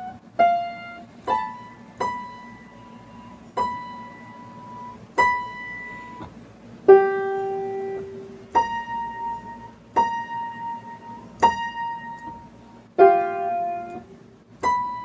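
Slow piano melody of single notes, one struck every second or so, each ringing out before the next.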